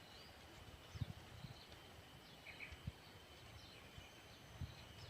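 Quiet outdoor ambience with faint, scattered short chirps of small birds, and a few soft low thumps.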